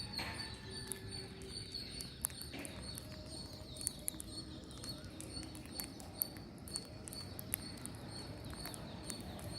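Green parrots foraging: scattered sharp clicks and faint short chirps over low, steady background noise.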